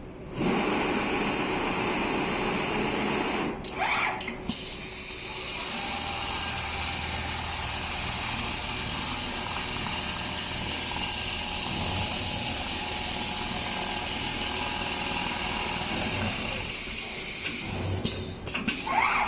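Automatic large-panel sewing machine running with a steady mechanical whir and hiss. The sound starts about five seconds in and stops a couple of seconds before the end, after a shorter, different machine sound at the start.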